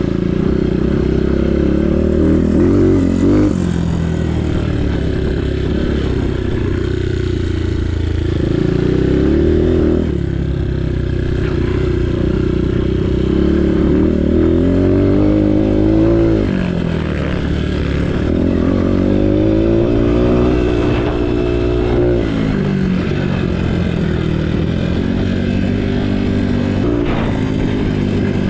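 Motocross bike engine ridden hard, the revs climbing and dropping again and again every few seconds as the throttle is opened and closed.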